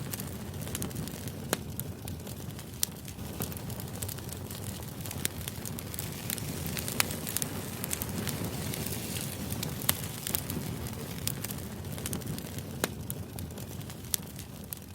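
Crackling fire ambience used as background white noise: a steady low rumble with irregular sharp pops and crackles scattered throughout.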